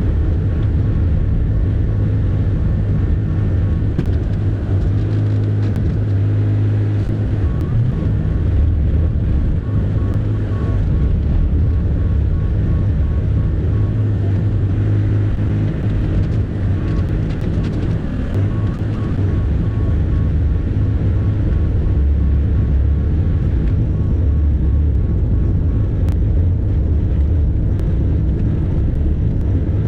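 Bobcat E50 compact excavator's diesel engine running steadily under working load, a heavy low drone, with a faint fast beeping that comes and goes.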